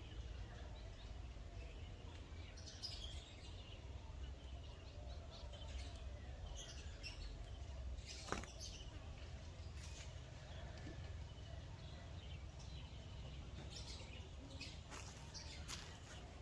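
Faint, scattered bird chirps over a steady low rumble, with one sharp click about halfway through.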